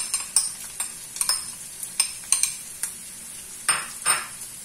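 Chicken, onion and garlic frying in oil in a wok, a steady sizzle, with a string of light clicks and knocks as diced carrots are tipped in from a glass bowl. Two louder clatters come near the end.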